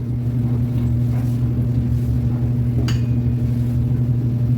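Microwave oven running with a steady low hum while melting butter, with a small click about three seconds in.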